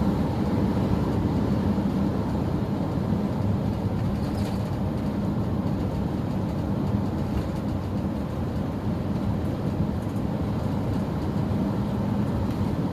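A car cruising at highway speed: steady low road and engine rumble with a constant hum, unchanging throughout.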